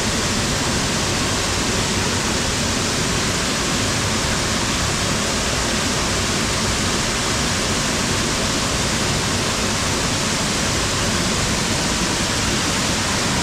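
Steady rushing of a small waterfall, heard from inside a shallow cave beneath it, an even roar of falling water that holds constant throughout.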